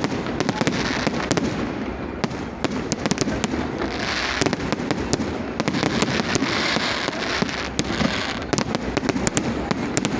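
Fireworks going off: many sharp bangs in quick, irregular succession, with stretches of dense crackling about four seconds in and again a little later.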